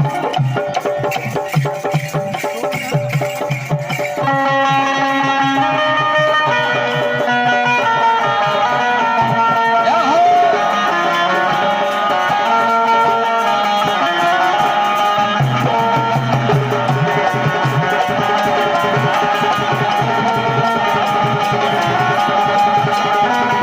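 Instrumental interlude of Indian folk music: hand drums keep a fast, steady rhythm, and a sustained melody instrument joins in about four seconds in, playing stepped notes.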